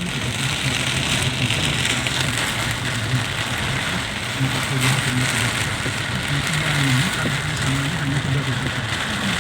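Steady rain falling, with a vehicle engine running at idle underneath as a low, uneven hum.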